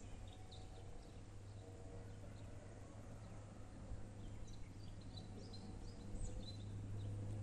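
Faint birds chirping outdoors, with short scattered calls, over a steady low hum.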